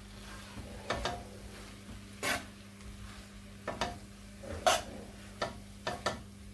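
Cooking utensil scraping and clinking against a wok as fried rice is stirred and tossed, in irregular strokes about once a second, over a steady low hum.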